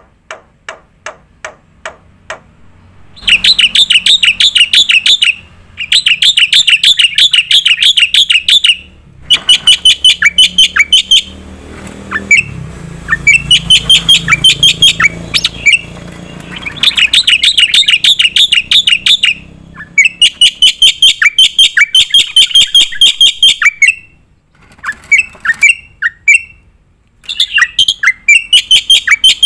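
Black-winged starling (jalak putih) singing hard in rapid-fire bursts. It gives long, loud trains of sharp high notes repeated about six times a second, each train lasting a few seconds with short pauses between. The song opens with a run of fainter ticks.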